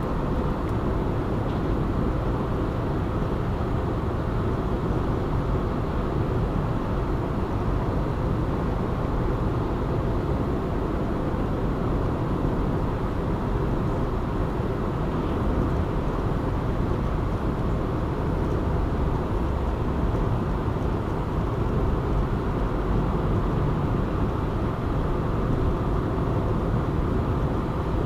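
Steady road noise of a car driving along a city highway: an even rumble of engine and tyres, strongest in the low end, with no change in pace.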